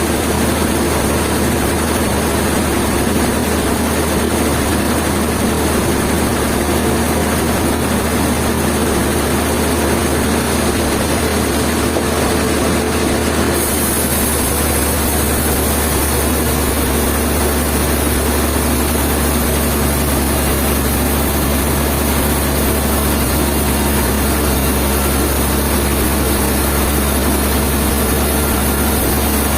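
A heavy engine running steadily with a constant low drone.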